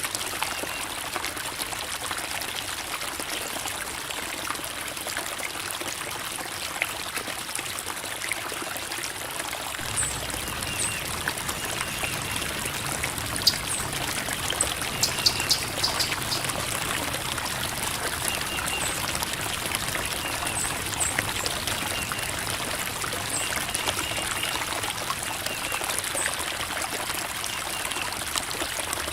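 A creek babbling and trickling over rocks, a steady rush of flowing water, with a fuller low rush from about a third of the way in.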